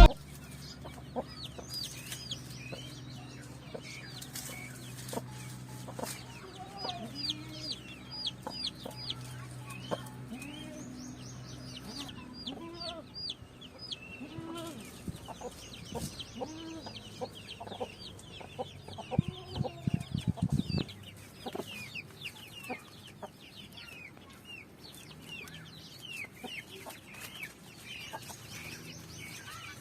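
A mother hen clucking low while her chicks peep constantly in short, high, falling cheeps, with a louder burst of calls about two-thirds of the way through.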